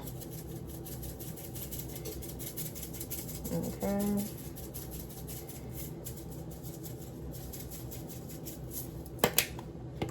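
Lemon pepper being shaken from a seasoning shaker onto raw chicken drumsticks: a rapid, steady rattle of many small clicks. Two sharp knocks come near the end.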